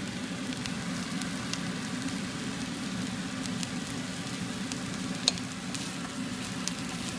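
Chiang da leaves, red ant eggs and egg sizzling as they stir-fry in oil in a non-stick wok, turned with a wooden spatula. A steady hiss is broken by scattered small clicks, one sharper click about five seconds in.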